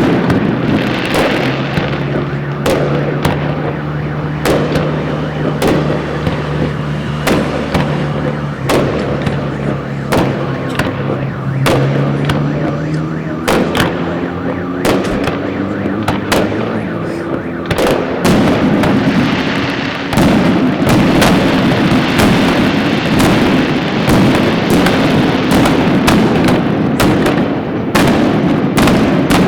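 Fireworks salute: aerial shells bursting in quick, irregular succession, dozens of sharp bangs. A steady low hum runs under them through the first half, and the noise grows denser in the last third.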